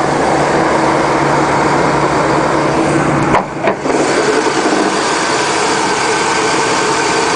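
Chevy 7.4-litre 454 big-block V8 idling steadily and smoothly, with a brief drop in loudness about three and a half seconds in.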